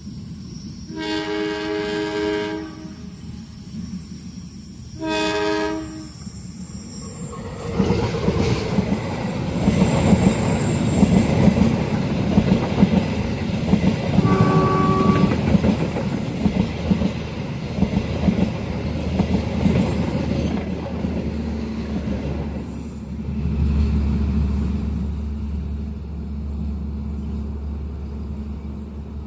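A train horn sounds two long chord blasts, then a long train passes at speed with rumbling and wheel clatter, a short horn toot about halfway through. A low steady hum lingers near the end.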